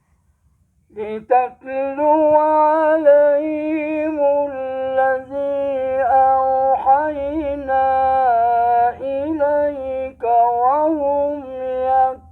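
A male Quran reciter chanting in slow melodic tajweed, holding long ornamented notes that waver and glide. The chanting begins about a second in after a brief silence, with short breaths between phrases.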